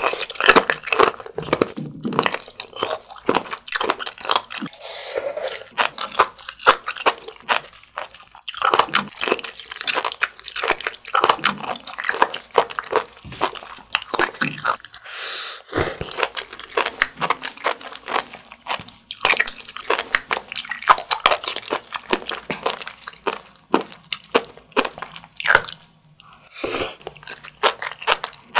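Close-miked chewing of sea grapes: a dense run of small crisp pops and crunches as the seaweed's bead-like vesicles burst in the mouth.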